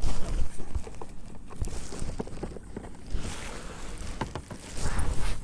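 Water sloshing against a fishing kayak, with wind rumbling on the microphone and scattered light knocks and clicks on the hull. Two hissy swells of water noise, about three seconds in and again near the end.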